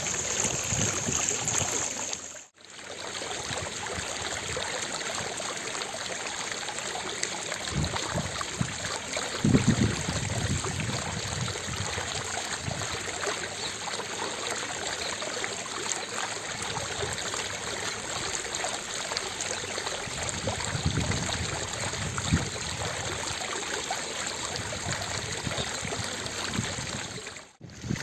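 Water of a fountain splashing steadily, an even rush of noise. It drops out briefly about two and a half seconds in and again just before the end.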